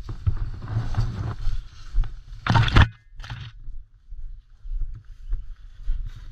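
Footsteps and rustling as someone walks through woodland undergrowth, with irregular low thumps and a louder brush rustle about two and a half seconds in.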